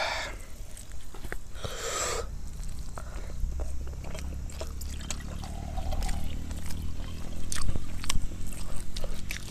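Close-up eating sounds: a person chewing a mouthful of rice and egg curry, with wet mouth noises and many small clicks, and a short hissing breath through the mouth about two seconds in.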